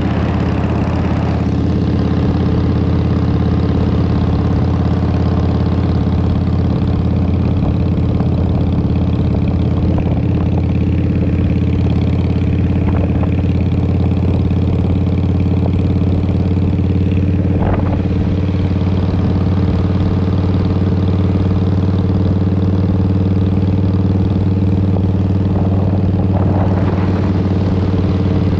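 Harley-Davidson Fat Boy's Twin Cam 88 V-twin running through Vance & Hines pipes, holding a steady engine note with no change in revs.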